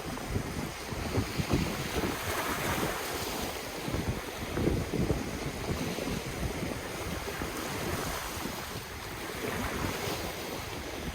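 Ocean waves washing on the shore, swelling about two seconds in and again near the end, with wind buffeting the microphone in low, uneven rumbles.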